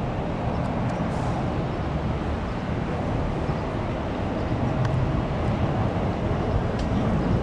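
Docklands Light Railway train running along curved track toward the station: a steady low rumble with no distinct knocks or horn.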